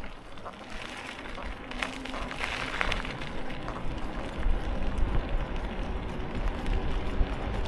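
Riding noise picked up by an action camera during a bike ride: wind buffeting the microphone as a low rumble that grows steadily louder, with scattered small clicks and rattles.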